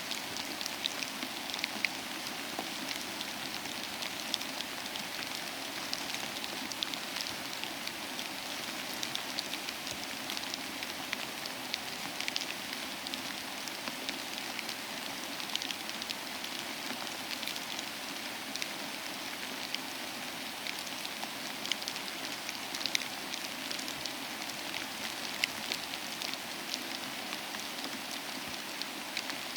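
Steady rain falling, an even hiss with many distinct drops pattering and ticking.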